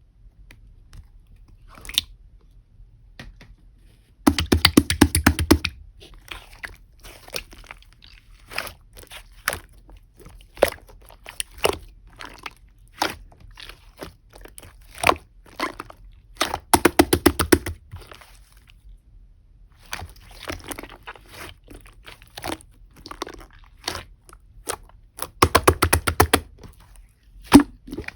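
Slime being pressed, squeezed and stretched by hand, giving scattered sharp sticky clicks and crackles. Three times the clicking thickens into a dense run lasting a second or two.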